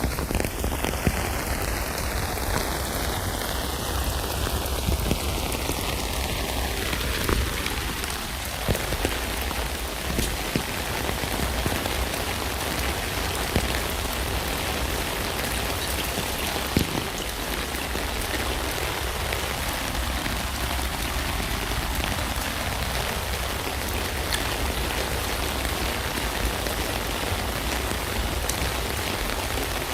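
Rain falling steadily on a tent, an even patter with scattered sharper drop ticks.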